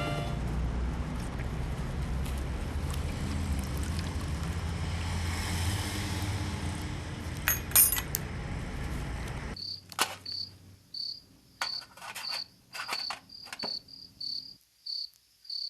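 A loud, steady low rumble runs for about the first nine and a half seconds, then cuts off suddenly. After it, crickets chirp in a steady rhythm of roughly two to three high chirps a second, with a few sharp clicks among them.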